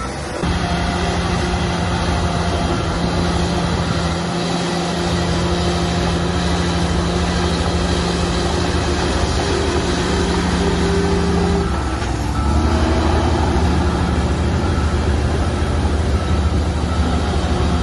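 Shantui bulldozer's diesel engine running steadily under load, its pitch changing about two-thirds of the way through as it shifts to a different working speed. In the second half a faint reversing alarm beeps in a slow, even rhythm.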